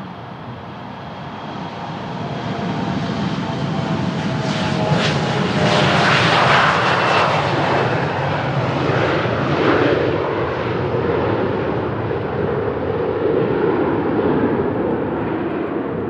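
An Embraer E175 regional jet's twin turbofan engines on departure, swelling to a peak about six seconds in and slowly fading, with a whine that falls in pitch as it passes. Wind buffets the microphone underneath.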